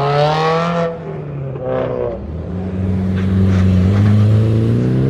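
A car engine accelerating hard, its pitch climbing and falling back about a second in as it shifts up, then climbing again through the next gear.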